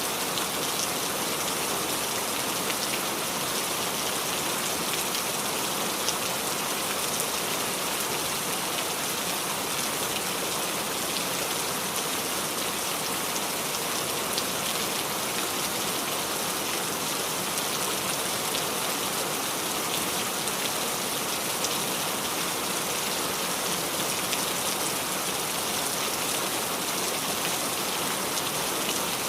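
Steady rain falling and dripping on the leaves of a small tree: an even hiss with scattered small drop ticks.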